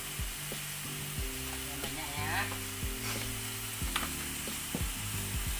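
Chilli-tomato sambal paste sizzling in hot oil in a steel wok, stirred with a metal spatula that scrapes and clicks against the pan every second or so.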